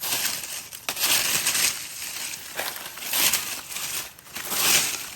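Dry crunching and crinkling handling noise in four or five irregular bursts, like dry material being crushed and rustled close to the microphone.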